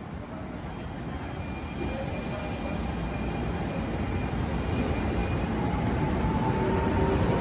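Ex-Tokyo Metro 6000-series electric commuter train drawing closer, its rumble growing steadily louder, with thin whining tones above it.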